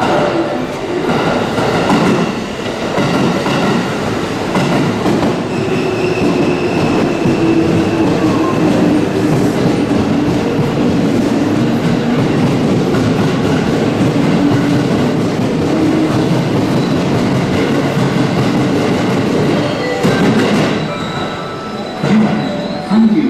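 JR West 221 series electric trains running along the platform: a steady rumble of wheels and traction motors on the rails, with some clacking over the rail joints.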